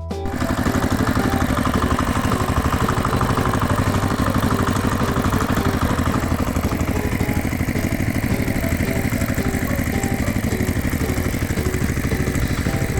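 Tractor-type engine running steadily with a fast, even chugging pulse, starting abruptly and holding the same speed throughout.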